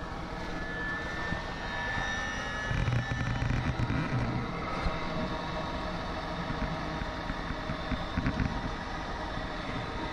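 Webasto diesel-fired coolant preheater on a John Deere 1010E running through its wind-down cycle before a cold start: a steady blower rush with a thin whine, and a heavier low rumble swelling a few seconds in.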